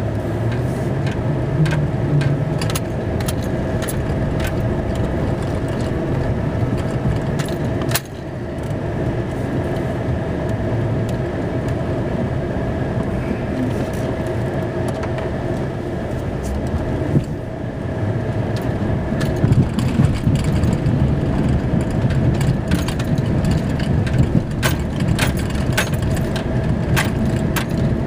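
A snowplow truck's engine running steadily while pushing snow, with frequent clicks and rattles over the hum. The sound dips briefly about eight seconds in and again a little after seventeen seconds.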